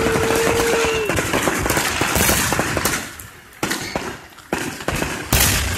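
Fireworks going off: a dense crackling barrage with a steady held tone that stops about a second in, then thinning to a few separate bangs roughly a second apart.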